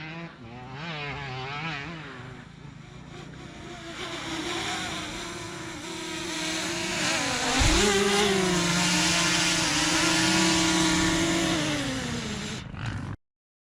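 Dirt bike engine running at low revs with a wavering pitch, then revving up sharply about halfway through and held at high revs before easing off. The sound cuts off abruptly near the end.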